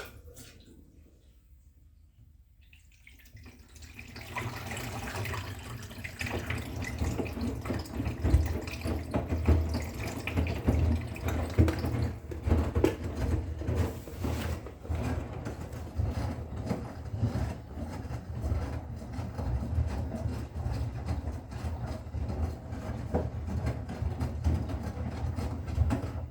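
Bosch Serie 6 washing machine taking in water: the water starts flowing in about three seconds in and runs on steadily, with a low hum and irregular splashing.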